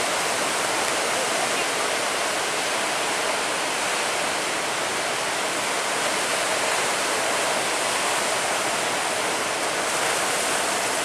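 Steady rushing noise of waves and churning water.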